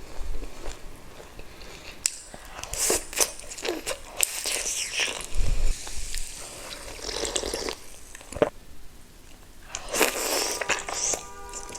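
Close-miked eating of pork ribs and pork dumplings: bites and chewing, with irregular clusters of crunchy clicks and smacks and short pauses between them.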